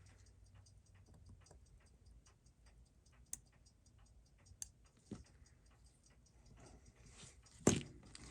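Fast, even ticking of a mechanical timepiece, several ticks a second, with a few sharper clicks and a louder knock near the end from tools or parts being handled.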